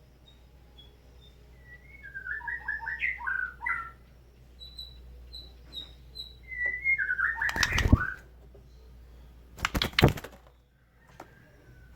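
White-rumped shama singing two short warbled phrases with thin high notes between them, then two loud bursts of wing-flapping, the second about ten seconds in and the loudest.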